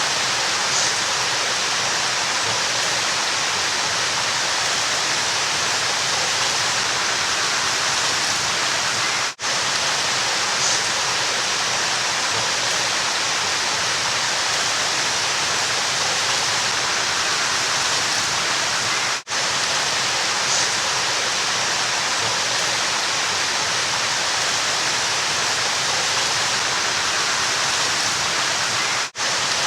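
River water rushing steadily in an even hiss. It drops out for a split second about every ten seconds, where the short looped recording starts over.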